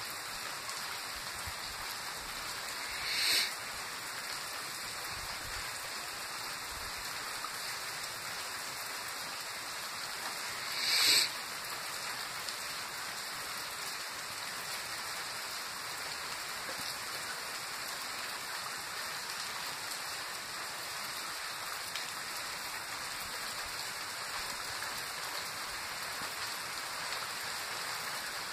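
Steady rain falling, an even hiss with no let-up, broken by two brief louder swishes about three and eleven seconds in.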